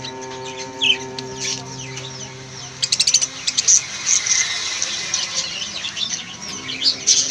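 Lovebirds chirping: many short, high chirps, with a quick rattling run of chirps about three seconds in. A steady low tone sounds underneath for the first few seconds.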